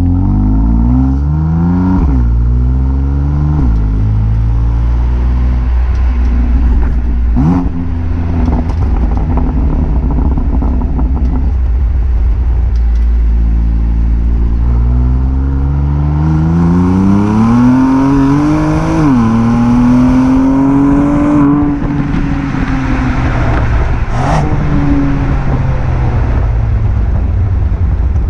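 BMW M2 Competition's twin-turbo straight-six with its stock exhaust and petrol particulate filter, accelerating: engine pitch climbs and drops sharply at each gear change, about two and four seconds in, then after a long pull about two-thirds of the way through. Two short sharp cracks stand out, one about a quarter of the way in and one near the end.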